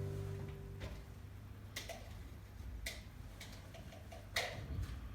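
Strummed acoustic guitar music fading out, then about six faint, irregular clicks and taps, the loudest a little over four seconds in.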